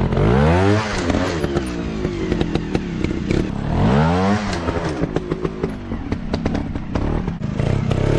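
150cc dirt bike engine revving in repeated surges, the pitch climbing and dropping back just after the start and again about four seconds in, with lots of sharp clatter as the bike works over rough ground.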